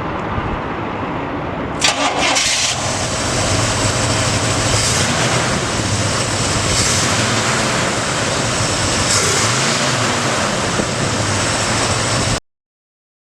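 1971 Chevrolet C10 pickup's engine being started, catching about two seconds in after a few short bursts, then running steadily. The sound cuts off abruptly near the end.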